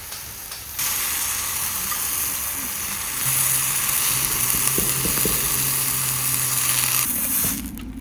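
Food sizzling as it fries in a pan, a steady hiss that grows louder in two sudden steps and falls away near the end.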